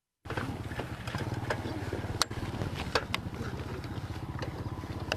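A small engine running steadily with a low, rapidly pulsing rumble, and a few sharp clicks over it; the sound cuts out completely for a moment at the very start.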